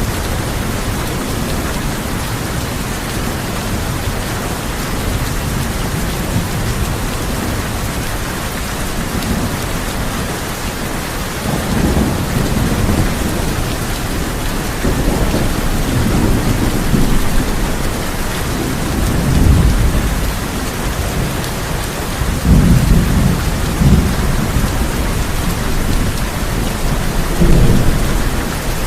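Heavy rain drumming steadily on a tin roof, with rolling thunder rumbling in low swells several times from about twelve seconds in.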